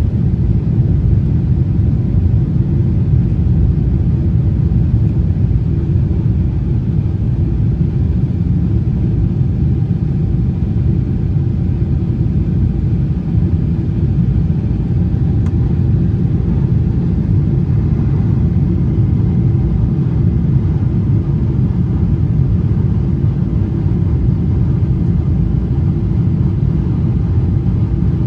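Steady low rumble of a Boeing 777-300 airliner cabin in flight: engine and airflow noise, even and unchanging.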